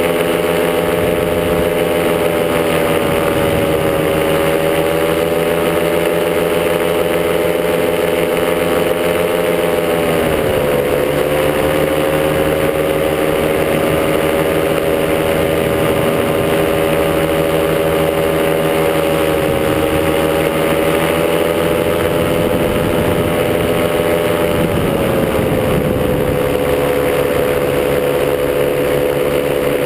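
Top80 paramotor engine and propeller running steadily in flight at cruise throttle. The engine note dips slightly about ten seconds in and again a few seconds before the end as the throttle is eased.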